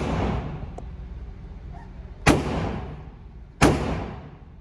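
Two gunshots about a second and a half apart, each trailing off in a long echo, with the fading echo of an earlier shot at the start.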